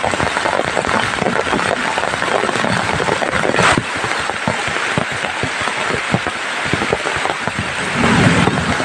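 Heavy rain falling steadily, with many drops striking close to the microphone as a dense patter. A low rumble begins near the end.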